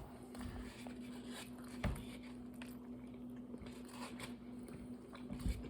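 Faint chewing and crunching as a fried chicken sandwich is bitten and eaten, with a couple of soft thumps, over a low steady hum.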